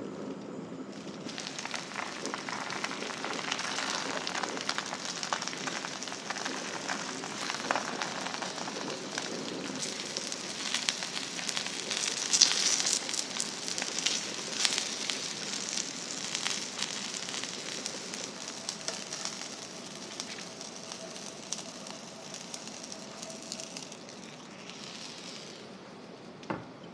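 Horse mackerel and bell pepper sizzling and crackling as they fry in a hot pan. The sizzle starts about a second in, is loudest around the middle, and dies down near the end.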